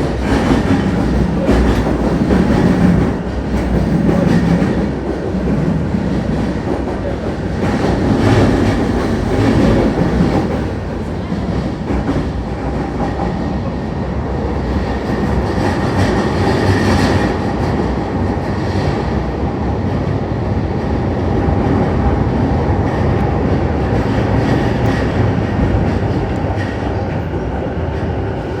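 Saikyo Line electric commuter train running, heard from inside the passenger car: steady running noise with the clickety-clack of wheels over rail joints, strongest in the first ten seconds.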